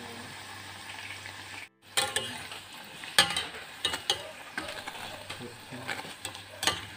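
Oil sizzling steadily as breadcrumb-coated bread empanadas deep-fry in a stainless steel pot. After a short break about two seconds in, the sizzling continues with repeated sharp clicks of metal tongs against the pot as the empanadas are turned.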